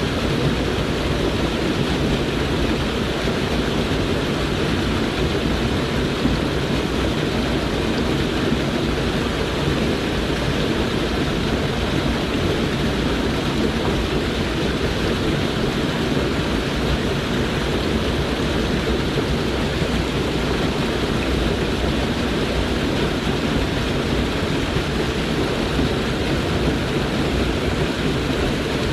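Mountain stream water rushing over rocks: a steady, unbroken rush of noise.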